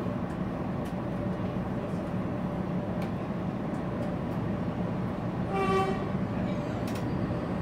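Train running on rails with a steady rumble and a few faint clicks of wheels over rail joints. A short, single horn blast sounds about five and a half seconds in.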